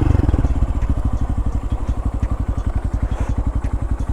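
Honda Grom's single-cylinder four-stroke engine idling, a steady even putter of about a dozen pulses a second.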